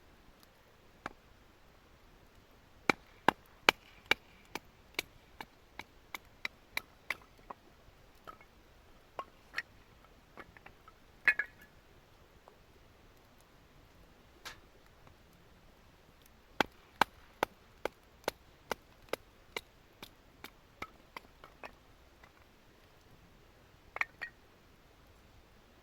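Firewood being split for kindling: two runs of sharp wooden strikes, about two or three a second, each starting loud and growing fainter, with a few single knocks between them.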